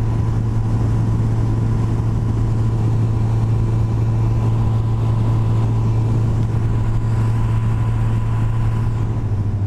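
Yamaha FJR1300 sport-touring motorcycle cruising at steady speed: the inline-four engine holds an even drone with wind and road noise over it.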